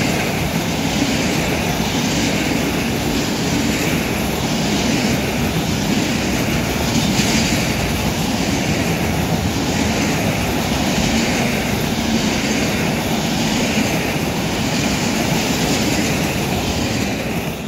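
Freight train of loaded container flat wagons rolling past at speed: a steady rumble of wheels on rail that swells and fades in a regular rhythm as each wagon goes by, falling away at the very end as the last wagon clears.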